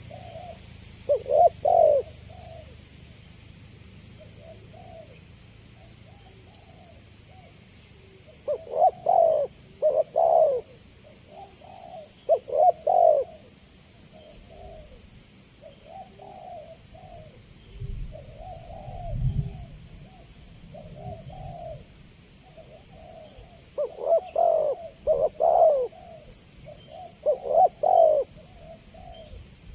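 Spotted dove (tekukur) cooing: repeated phrases of several low, rounded coos, with louder phrases at the start, around a third of the way in and near the end, and quieter coos between.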